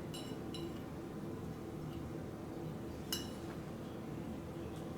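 Faint light clinks of a spoon against a bowl, as chopped ingredients are added to mashed potato: a few small ones near the start and one clearer clink about three seconds in.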